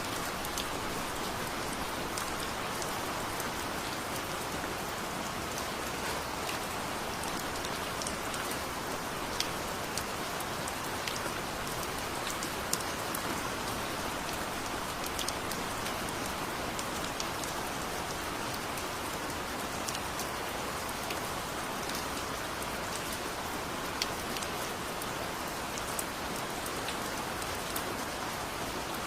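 Steady heavy rain falling, an even hiss with many sharp drop ticks scattered through it.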